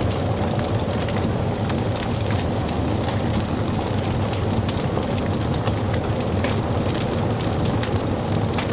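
Wood fire crackling and popping: many small sharp pops scattered over a steady low rumble.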